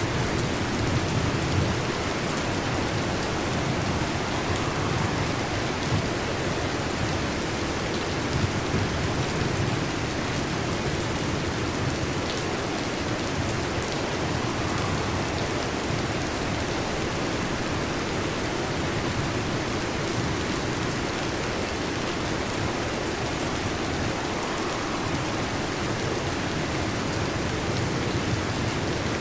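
Heavy rain drumming steadily on a metal roof, with low thunder rumbling during the first ten seconds or so.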